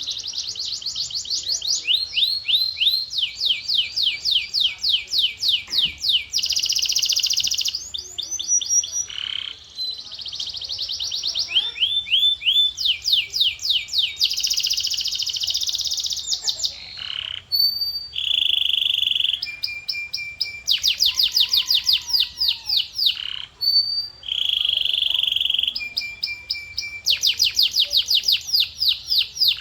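Male domestic canary singing: long runs of fast repeated rising notes, several a second, alternating with held buzzy rolls and short clear whistles, with only brief pauses.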